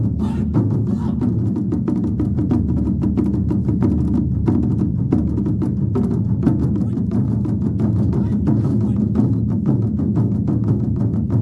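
A drum ensemble of large drums beaten in a fast, dense, unbroken rhythm, the strikes coming many times a second with a deep low end.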